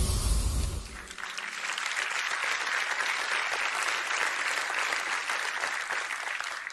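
Audience applauding steadily, over the tail of background music that ends about a second in.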